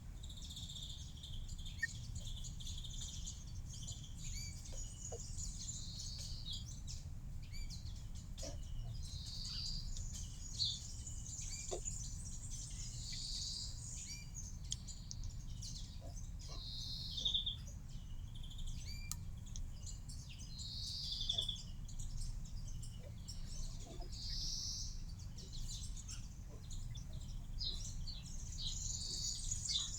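Small birds chirping, short high calls repeating every few seconds, over a steady low background rumble with scattered light ticks.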